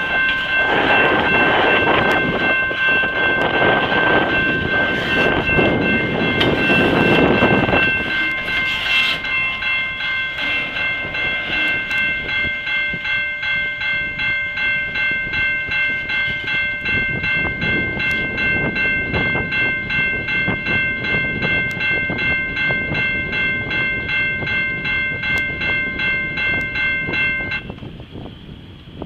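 Freight train cars rumbling past a grade crossing, with the crossing bells ringing in a steady pulse of about two strokes a second. The loud rolling noise of the cars fades about eight seconds in as the end of the train clears. The bells keep ringing until they cut off suddenly near the end.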